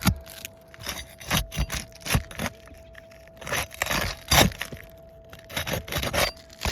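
Cold, brittle 3-tab asphalt shingles being pried up, making a series of sharp cracks and short scrapes at irregular intervals as their sun-sealed tabs are broken apart.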